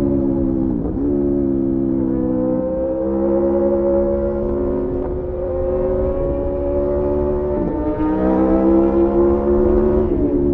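Sport motorcycle engine, heard on board, pulling steadily under acceleration with its pitch slowly rising. The pitch drops sharply at about one second in, again near eight seconds and again near the end: upshifts.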